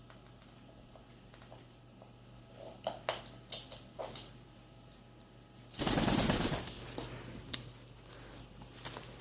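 Alexandrine parrot's beak clicking and scraping on a piece of wood: a few sharp clicks, then a loud rustling burst about a second long past the middle, then a few more clicks.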